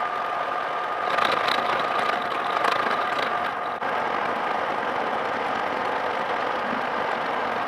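An electric power tool's motor running steadily with a high whine. From about one to four seconds in it sounds louder and rougher, as if working against metal, then runs on evenly.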